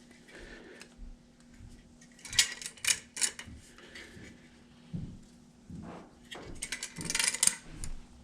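A hand ratchet wrench clicking in two short runs, about two seconds in and again near seven seconds, as a fitting is given another turn, with a few dull knocks of tool on metal and a faint steady hum underneath.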